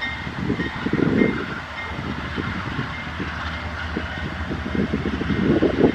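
A train rolling past: a steady low locomotive rumble with wheels clattering irregularly on the rails.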